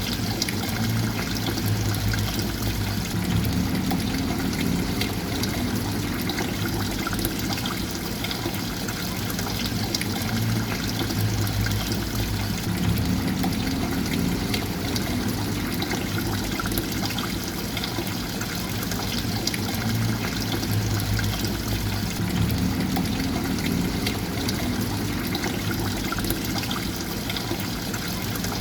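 Water trickling and pouring steadily, with a low swell that comes back about every nine to ten seconds.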